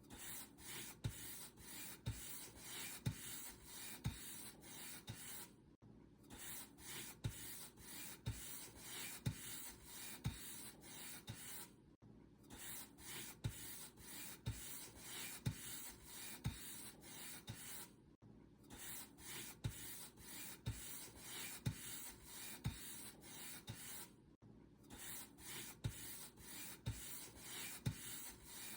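Paint brush stroked back and forth over a surface: a steady run of swishing strokes about two a second, broken by a brief pause about every six seconds.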